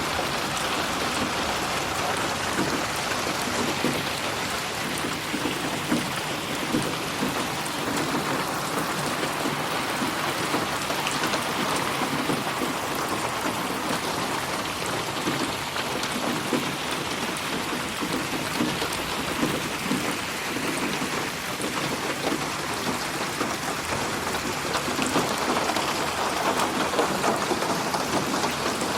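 Steady heavy rain falling on a surface, a dense even patter, mixed as 8D audio so that it slowly swells and shifts around the listener.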